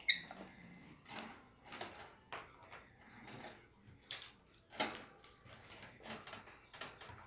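Pet lovebirds scrabbling and rustling about their cage: a dozen or so short, irregular scrapes and knocks, the loudest a sharp one right at the start with a brief high chirp in it.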